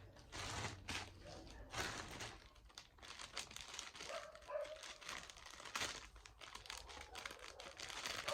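Plastic packaging crinkling and rustling in irregular bursts as items are handled and unwrapped, with a faint short whine about four seconds in.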